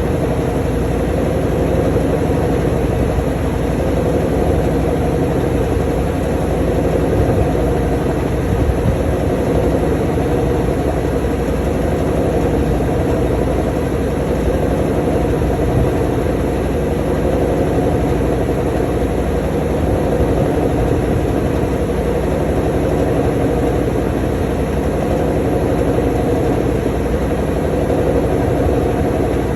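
Washing machine in its spin cycle: the drum spinning at a steady speed with a continuous motor hum.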